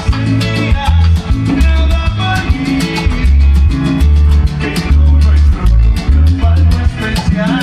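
Salsa orchestra playing: a heavy bass line under a steady percussion rhythm, with held melody notes above.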